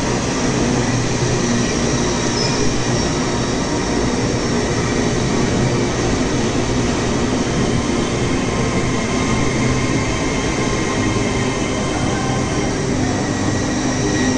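A train's steady running noise: a low hum with several held higher tones, loud and unchanging throughout.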